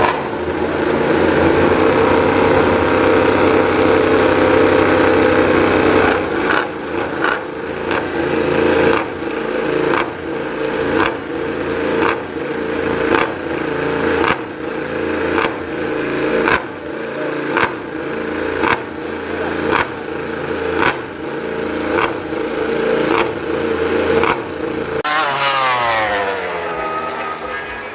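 Yamaha MotoGP racing motorcycle's engine held at steady revs for about six seconds, then blipped over and over, about once a second. Near the end the revs sweep down and back up.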